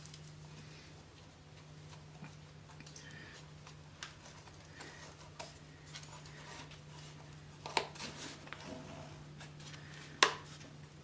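Scattered small clicks and taps of handling, with one sharp knock about ten seconds in, over a steady low hum.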